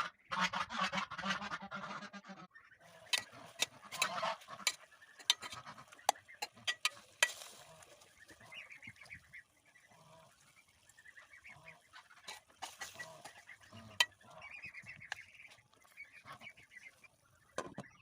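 Farm birds calling on and off, busiest in the first couple of seconds, mixed with scattered sharp clicks and knocks, the loudest about seven and fourteen seconds in.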